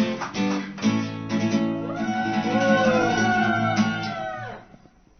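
Acoustic guitar playing chords, fading out about four and a half seconds in.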